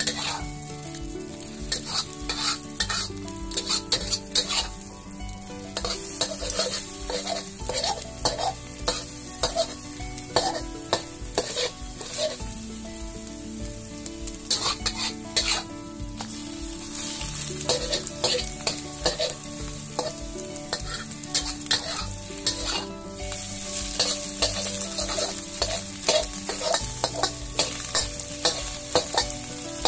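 Eggs frying and sizzling in a wok, with a metal spatula scraping and tapping against the pan many times as the eggs are stirred and chopped into small pieces.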